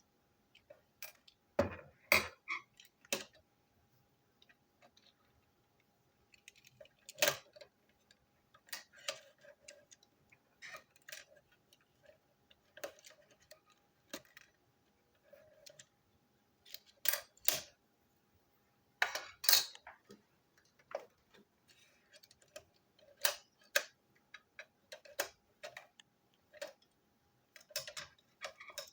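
Irregular clicks and clacks of plastic toy train pieces being handled, taken apart and fitted back together.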